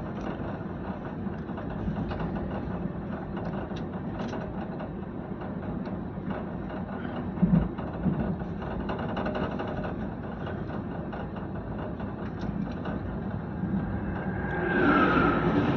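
Moving train running on the rails, a steady rumble heard from on board, with a single sharp knock about halfway through and a louder stretch carrying a high tone near the end.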